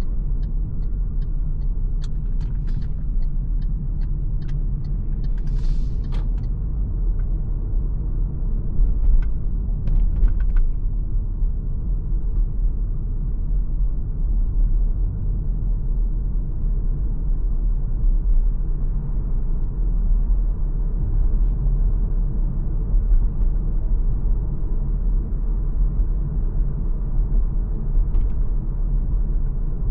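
MG ZS Hybrid+ driving on the road, a steady low rumble of tyres and drivetrain, with a run of light clicks and a few brief sharper noises in the first ten seconds.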